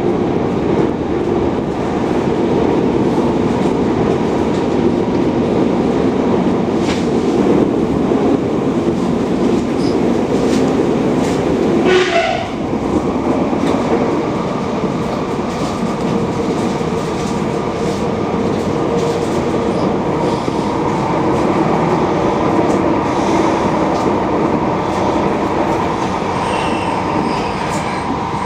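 Passenger train running along the track, heard from inside the carriage: a steady, loud rolling rumble. About twelve seconds in, a brief high tone sweeps quickly downward. Near the end, thin high-pitched wheel squeal can be heard.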